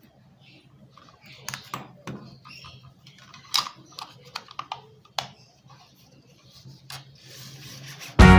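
Scattered sharp plastic clicks and taps from a small wireless computer mouse being handled, over a steady low hum. Loud rock music with guitar and drums cuts in near the end.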